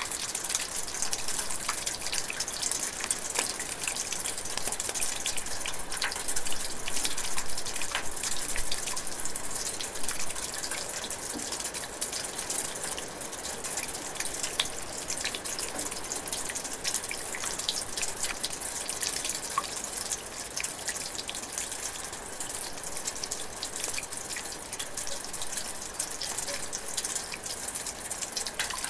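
Light rain drizzling steadily, a constant hiss full of fine drips and patters of drops.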